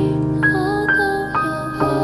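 Gentle, slow piano music, a melody of single notes struck about twice a second over sustained lower notes.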